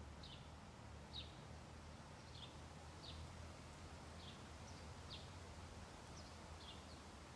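A bird giving short, high, downward chirps roughly once a second, faint over a low steady background rumble.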